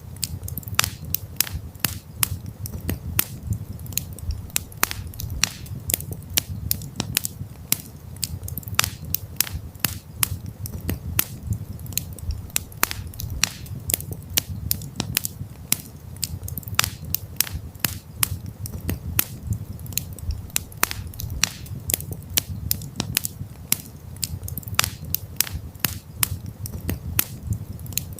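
Campfire of burning wood crackling: frequent irregular sharp pops and snaps over a steady low rumble of the flames.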